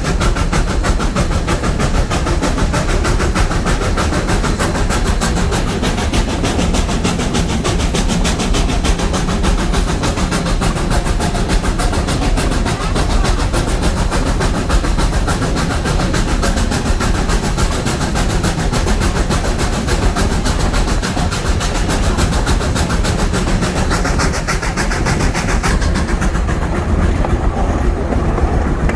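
Steam-hauled train running along the track: a steady low rumble with fast, even clatter from the wheels and rails. The higher noise drops away near the end.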